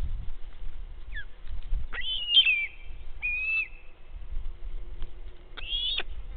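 Short, high chirping calls, about four of them, each a quick bend in pitch, over a low steady rumble.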